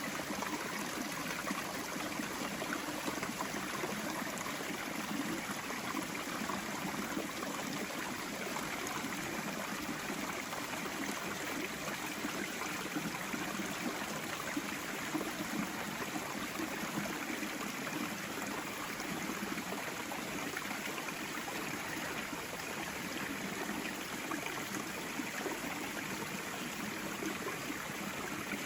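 Steady rush of a mountain stream or small waterfall flowing freely, its water still running under the ice rather than frozen solid.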